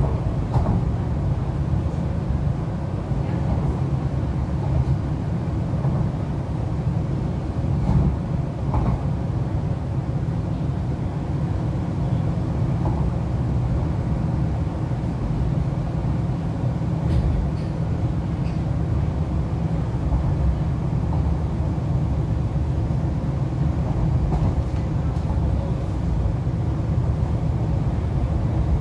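Interior running noise of an MTR East Rail Line R-Train (electric multiple unit) travelling at speed: a steady low rumble from the wheels on the track and the running gear, with a few faint ticks.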